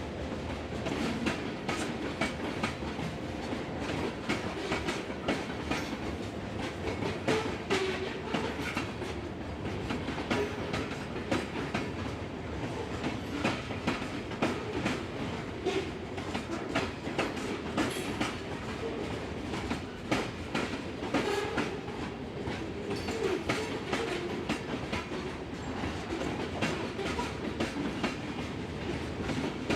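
Norfolk Southern freight train rolling past, its steel wheels clicking and clattering steadily over the rails.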